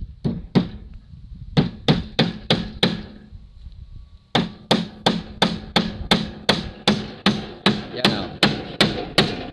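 Claw hammer nailing a wooden cleat onto plywood concrete beam formwork: quick, sharp blows about three a second, with a short break after the first two and a longer pause around the middle before a steady run of blows.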